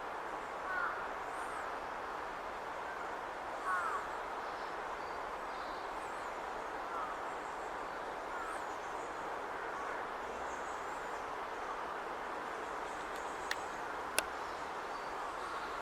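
Steady outdoor background noise, like distant city traffic, with a few short faint bird calls scattered through it. Two sharp clicks come near the end.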